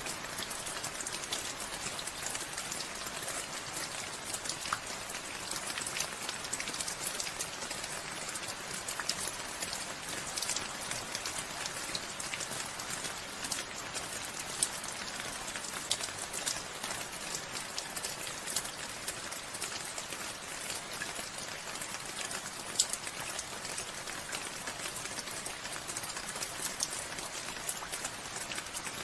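Steady rainfall, a constant hiss of rain full of individual drop ticks, with a few louder single drops.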